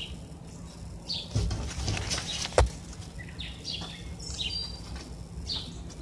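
Birds chirping over and over, short high calls. About two and a half seconds in comes one sharp knock, the loudest sound, just after a brief low rumble, over a steady low hum.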